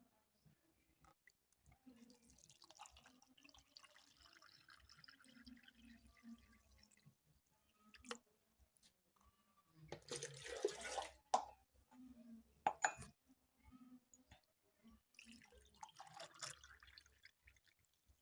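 Faint dripping and trickling water, with a few brief louder bursts and clicks about halfway through and again near the end.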